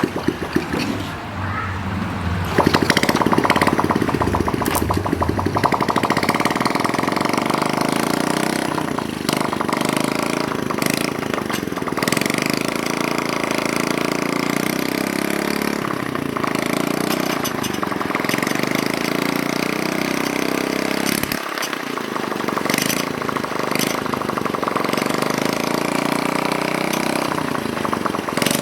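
Small motorcycle engine of a modified Honda Chaly starting about two seconds in, then running with its pitch rising and falling.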